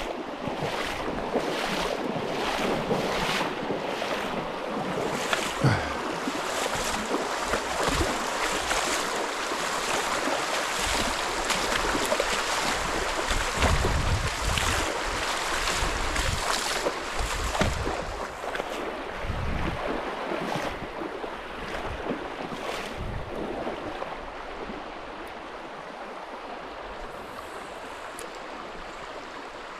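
Rushing creek water with wind gusting on the microphone, the gusts heaviest in the middle and easing in the last few seconds.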